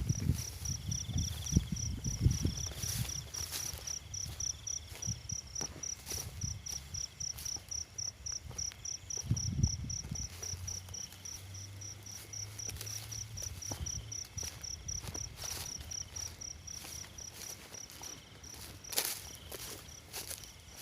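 An insect chirping in a steady, evenly pulsed high note, about four pulses a second. Low thumps and rustling come in the first few seconds and again about nine and a half seconds in.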